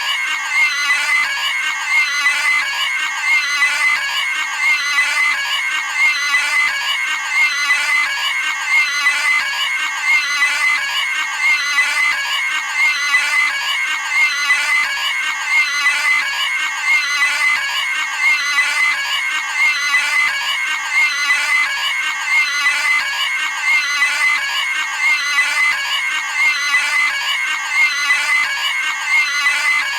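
Cartoon pig sound effect: a high-pitched pig scream, looped over and over, about one scream every second and a half.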